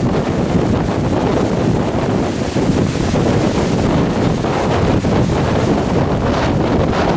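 Strong gusty wind buffeting the microphone: a loud, steady low rumble that swells and dips with the gusts.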